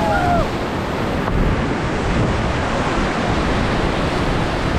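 River rapids rushing and splashing around a raft, a loud, steady wash of water, with wind buffeting the microphone.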